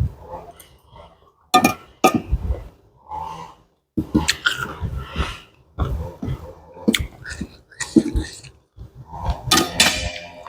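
Close eating sounds from a person eating pounded salad: irregular chewing and mouth noises, with a few sharp clinks of utensils on a dish.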